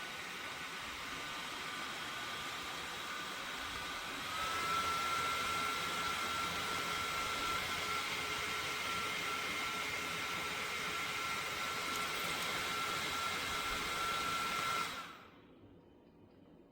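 Portable bladeless neck fan running with a steady rush of air and a thin high whine. About four seconds in it steps up to a faster speed, louder with the whine a little higher, and near the end it winds down and stops as it is switched off.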